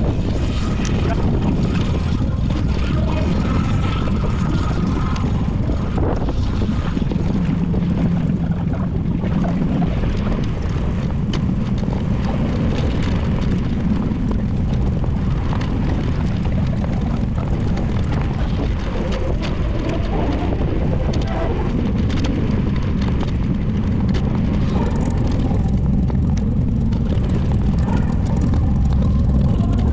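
Steady, loud rumbling noise from riding a bicycle: wind buffeting the camera's microphone mixed with road noise, with scattered faint clicks.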